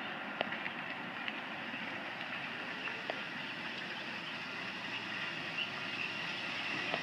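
Steady vehicle noise, an even rumble and hiss, with a few light clicks scattered through it, growing slightly louder near the end.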